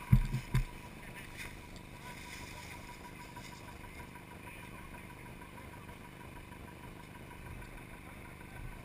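Off-road vehicle's engine running steadily at low level, with two heavy thumps in the first second.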